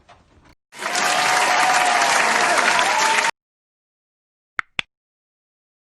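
Applause and crowd cheering for about two and a half seconds, starting and cutting off abruptly like an edited-in sound effect, followed about a second later by two quick short blips.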